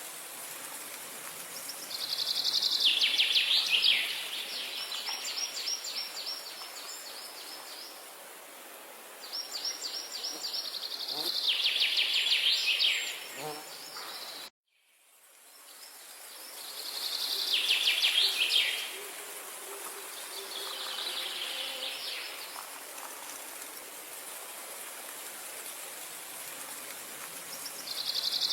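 A songbird sings a rapid trilled phrase of a few seconds, five times, over a steady background hiss. The sound cuts out abruptly about halfway through and fades back in.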